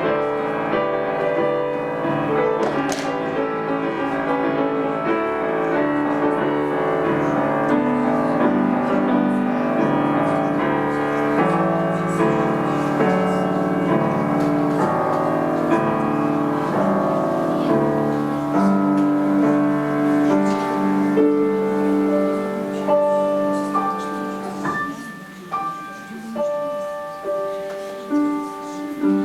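Grand piano playing a slow piece in full, sustained chords, which thin out into separate ringing notes with short gaps near the end.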